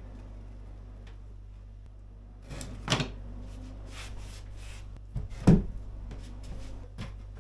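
A painted wooden cupboard piece being handled and turned around: a few wooden knocks and clunks, the loudest about five and a half seconds in, over a steady low hum.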